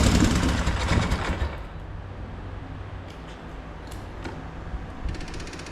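Polaris Sportsman 850 quad engine running rough and dying out about a second and a half in, misfiring on old fuel. After it stops, only a low hum and a few faint mechanical clicks and ticks.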